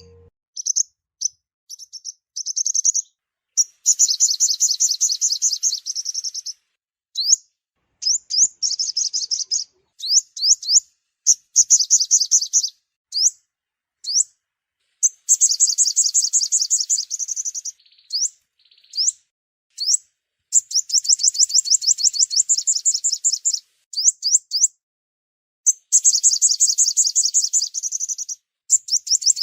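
Five-coloured sunbird song: high, rapid trilled phrases lasting a couple of seconds each, broken by short pauses and single sharp upward notes.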